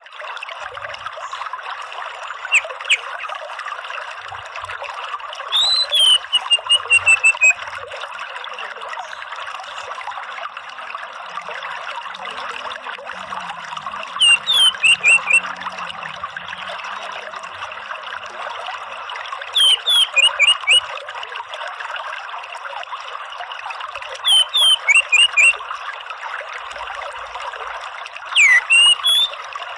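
An orange-headed thrush calls in about six short bursts of quick, sharp, sweeping notes over a steady trickle of running water.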